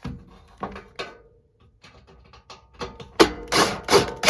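A stubborn screw being worked into the sheet-metal of a heat pump's air handler, with clicks, knocks and scraping of metal on metal. About three seconds in come several loud, rasping bursts.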